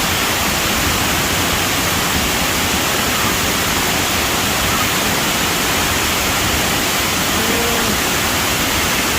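Sai Yok Noi waterfall: a steady, loud rush of falling water, unbroken throughout.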